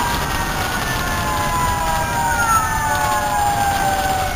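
Several fire, ambulance and police sirens wailing at once, their slowly gliding tones overlapping.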